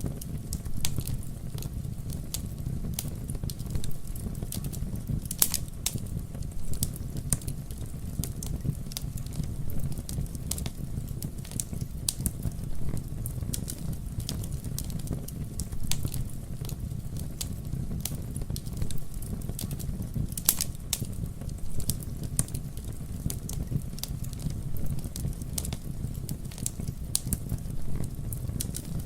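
Campfire burning with a steady low rumble of flames and continual wood crackling, dotted with sharper pops, two of them louder about five and twenty seconds in.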